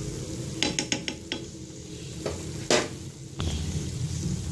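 Moong and urad dal fritters sizzling as they deep-fry in oil in a pan, while a fork clicks against the pan several times in quick succession about a second in and once more, more sharply, near three seconds in, as the fritters are turned.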